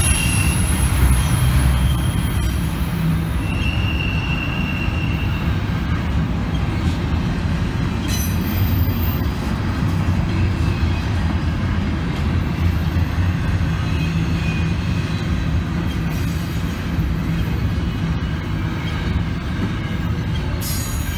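Train cars rolling past with a steady low rumble and occasional brief high-pitched wheel squeals, the clearest about four seconds in.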